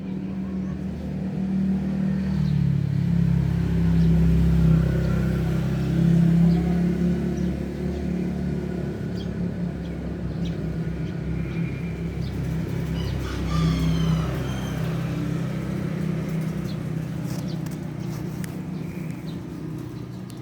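A motor vehicle engine running with a steady low hum, swelling to its loudest about four to six seconds in and then holding. A few short high chirps come in about thirteen seconds in.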